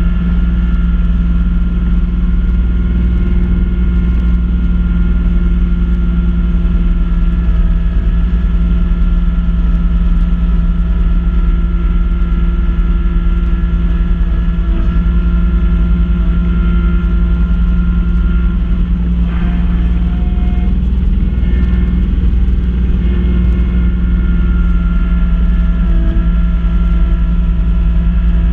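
Kubota B2650 tractor's three-cylinder diesel engine running steadily under load while working a front-mounted snowblower. Its pitch changes briefly about two-thirds of the way in, then settles back to the same steady note.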